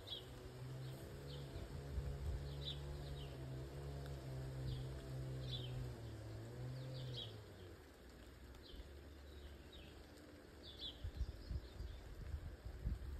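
A small bird chirping over and over in short, quick downward notes. Under it, a low steady hum runs for the first half and then stops, and a few low thuds come near the end.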